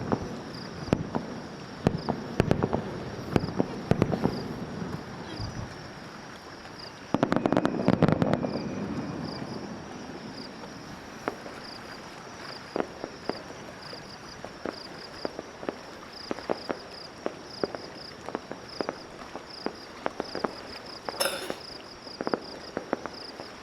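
Fireworks bursting overhead, a run of sharp pops and crackles with one dense, loud volley about seven seconds in. Insects chirp in an even rhythm underneath.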